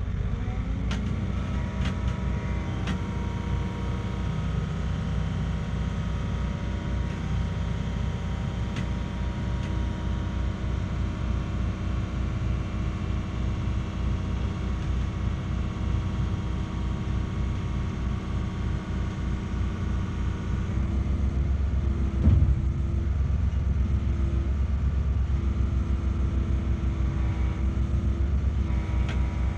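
Heavy truck's diesel engine running steadily, heard from inside the cab. About 21 s in the engine grows louder, and a single knock comes just after.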